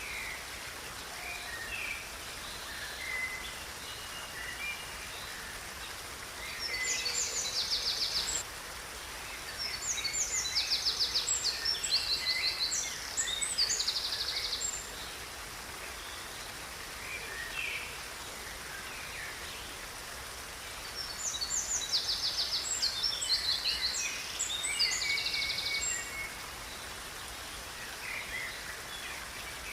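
Songbirds singing outdoors: scattered short chirps throughout, and loud bursts of rapid, high trilled phrases in two spells, one in the first half and one after about twenty seconds. Under the birdsong runs a steady, even hiss.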